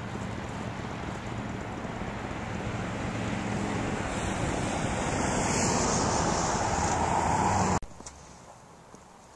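Wind rushing over the microphone of a moving motorcycle, with the engine running underneath. The noise grows louder and cuts off suddenly near the end.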